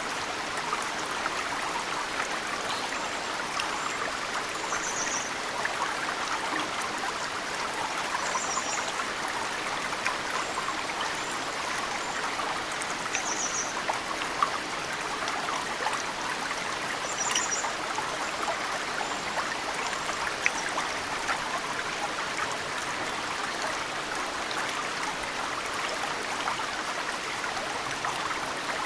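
Mountain stream flowing steadily, with snowmelt drips falling into it as occasional sharp plinks. A small bird gives short high chirps several times.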